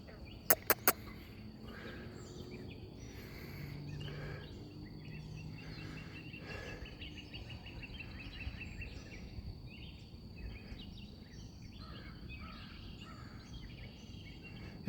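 Outdoor natural ambience: scattered bird chirps and a rapid trill of repeated notes in the middle, over a steady thin high tone like an insect. Three quick sharp clicks about half a second in.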